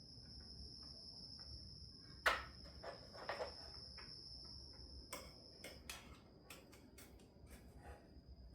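Scattered metallic clicks and knocks of hand tools being worked on an engine, with one sharp clank a little over two seconds in and a run of lighter taps later, over a steady high-pitched tone.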